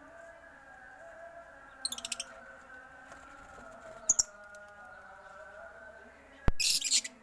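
Cage birds chirping in short, sharp, high bursts: a rapid run about two seconds in, a brief pair around four seconds, and the loudest flurry near the end, just after a sharp click. A steady background drone runs underneath.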